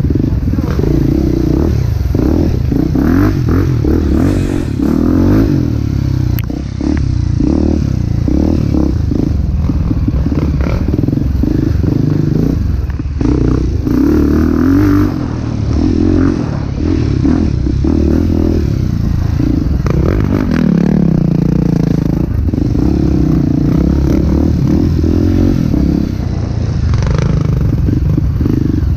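Trail motorcycle engine running over rough ground, its revs rising and falling again and again, with steady clattering and rattling from the ride.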